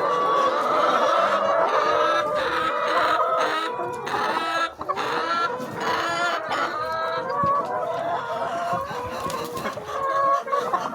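A flock of chickens clucking, with many short calls overlapping without a break.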